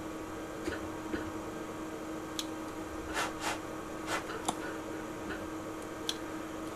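Scattered short clicks and taps, about eight spread over several seconds, as the oscilloscope's buttons are pressed to switch it to its FFT display, over a steady low hum.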